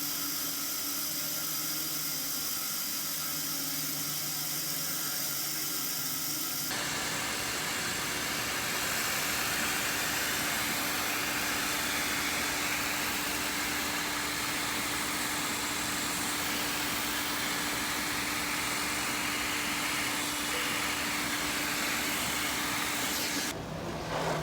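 A woodworking power tool running steadily with a constant hum. About seven seconds in, the sound changes abruptly to a louder hiss, as if the tool is working the wood. It cuts off suddenly near the end.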